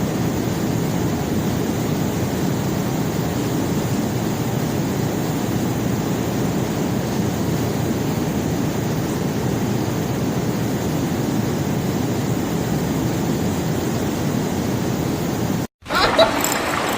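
Conveyor belt carrying rock, running with a steady low rumble that cuts out briefly near the end.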